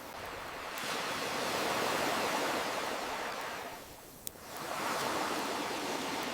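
Ocean surf washing in and out in slow swells. It eases off about four seconds in before the next wave builds, and a single sharp crackle pops from a wood campfire as it eases.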